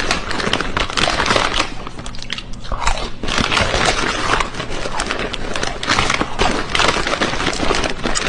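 Loud, dense crunching and chewing close to the microphone, an irregular run of crackles and crunches.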